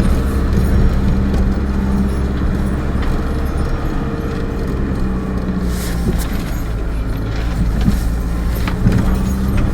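A vehicle's engine running steadily with road rumble, heard from inside the cab while driving.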